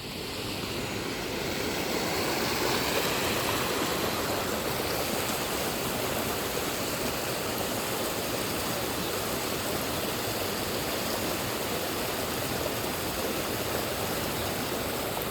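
Heavy rain falling, a dense steady hiss that grows louder over the first two seconds and then holds even.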